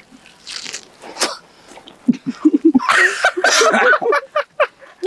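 Wet sucking and spitting noises as people eat fibrous ripe palmyra fruit, with a loud stretch of choppy laughter from about two seconds in.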